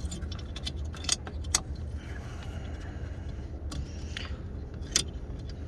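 Small hard clicks and taps, about five, as a replacement car headlight bulb is worked into its socket in the headlight housing, over a steady low rumble.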